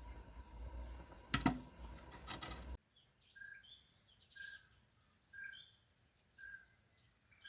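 A few knocks and clatters over a noisy background, then after an abrupt cut, wild birds calling: a short clear note repeated about once a second, with higher chirps in between.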